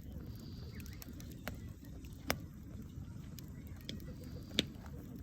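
Wood campfire crackling: a few sharp pops over a steady low rumble, the loudest a little past two seconds in and another near the end.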